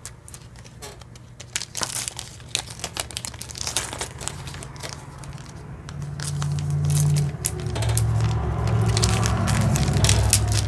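Plastic packaging bag of jewelry crinkling and crackling as it is handled and put into a box, with many small sharp crackles. A low steady hum comes in about six seconds in.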